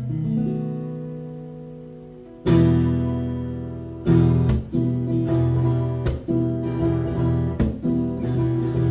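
Acoustic guitar played solo: a chord rings out and fades, then from about two and a half seconds in comes a run of sharp strummed chords, some cut short by muting.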